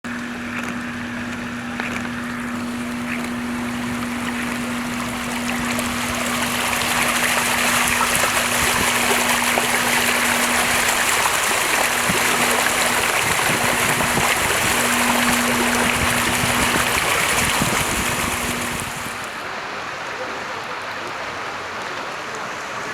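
Steady rush of flowing floodwater and rain, swelling about six seconds in and dropping away sharply near the end, over a steady low hum that fades out shortly before.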